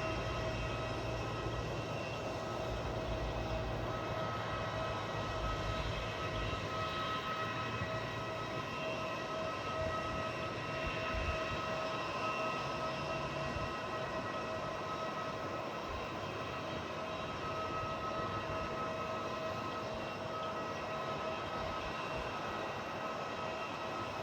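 Airliner engines running with a steady whine of several held tones over a rushing hiss, as at idle or slow taxi. A low rumble fades away over the first few seconds.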